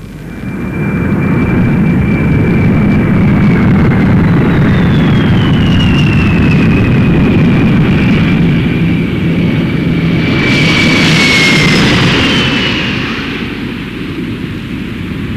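Jet airliner engines running loud, a deep rumble with a high turbine whine that slides down in pitch. A brighter rush comes about ten seconds in, and the sound eases off near the end.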